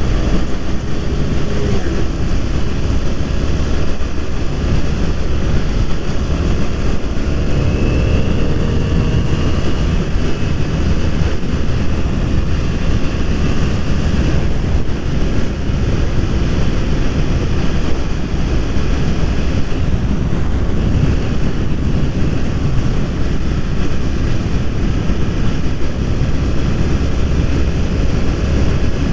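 BMW F 800 R's parallel-twin engine running on the move, with heavy wind rushing over the microphone. The engine note climbs briefly about a quarter of the way through.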